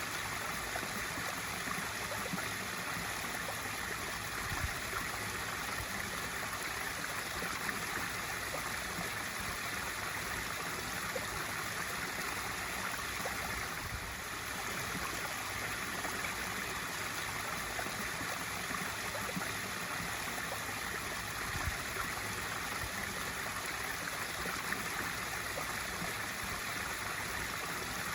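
Swimming pool waterfall feature pouring steadily into the pool: an even, unbroken rush of splashing water.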